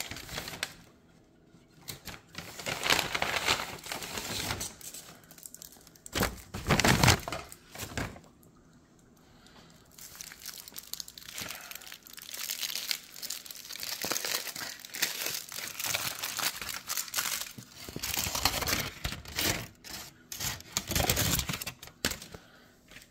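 Foil wrapper of a Chipotle burrito crinkling and tearing as it is unwrapped by hand, in irregular bursts with a couple of short pauses.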